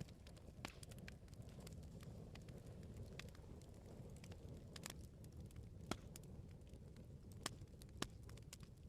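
Wood bonfire burning: a low steady rumble of flames with scattered crackles and pops, including a few sharper pops in the second half.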